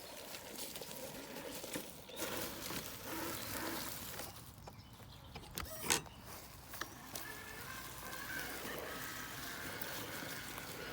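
Traxxas TRX-4 RC crawler driving slowly over rough trail ground: tires and chassis crunching and clattering, with a sharp knock about six seconds in.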